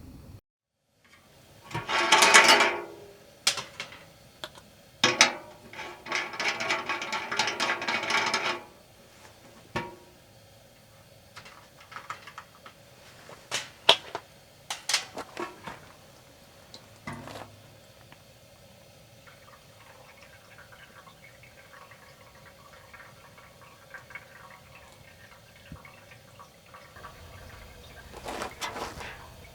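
Water poured or running in two bursts, a short one about two seconds in and a longer one of a few seconds, with scattered clicks and knocks of cookware and utensils.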